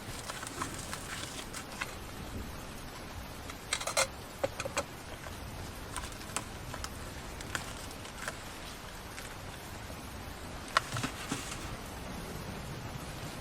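Steady hiss of rain with scattered sharp clicks and taps, bunched briefly about four seconds in and again near eleven seconds.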